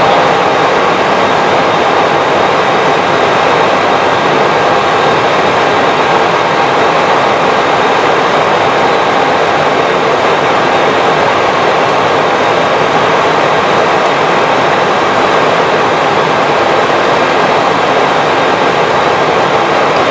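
Steady rushing noise of air and engines inside an Airbus A320 flight deck in flight, with faint steady tones running through it.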